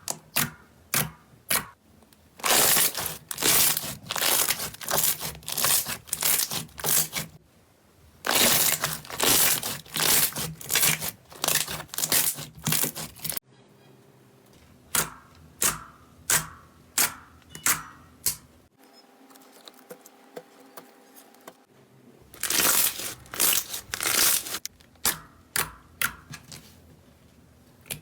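Slime being squeezed and poked by hand, giving a run of sharp clicks and pops with stretches of dense crackling. There is a short quieter pause about two-thirds of the way through.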